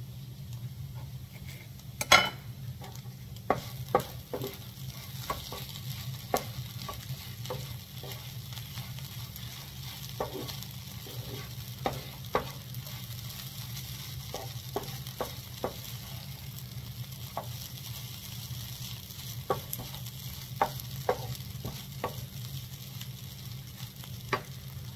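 Sausage, vegetable and rice mixture simmering in a skillet with a faint steady sizzle over a low steady hum. Irregular sharp knocks and clicks of kitchen utensils sound throughout, the loudest about two seconds in.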